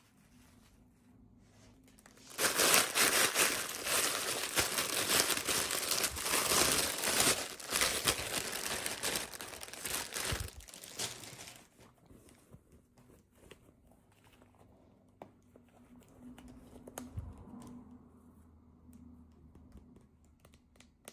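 Plastic toy packaging crinkling and tearing as it is handled and pulled open. There is a loud stretch of dense crinkling from about two seconds in to about eleven seconds in, then quieter, scattered rustling and handling.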